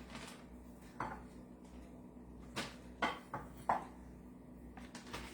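A spoon clinking against a bowl about five times as chicken pieces are spooned out, the loudest clink near the end.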